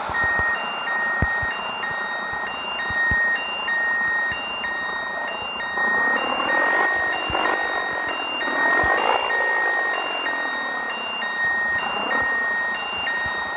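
Reversing alarm beeping steadily, about two beeps a second, over the Scania 113 truck's diesel engine running, which swells louder now and then.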